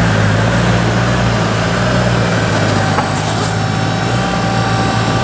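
Koenigsegg CCX's twin-supercharged V8 idling steadily with a low, even hum.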